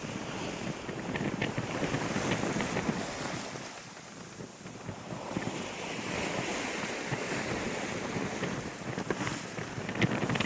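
Sea and wind aboard a sailboat under way: water rushing along the hull and wind buffeting the microphone, swelling and easing, with a few light ticks near the end.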